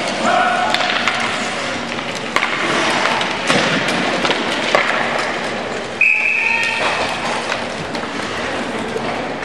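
Sledge hockey play in an ice arena: sticks and puck clicking and knocking on the ice and boards over a steady wash of crowd noise. A shrill whistle blast sounds about six seconds in and lasts about a second.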